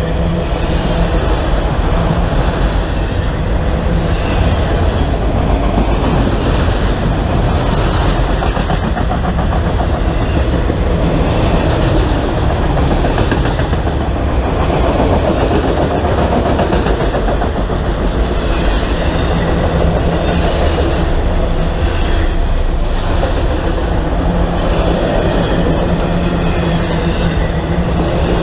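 A train passing close by, its cars rolling past with a steady loud rumble of wheels on rail and repeated clacks.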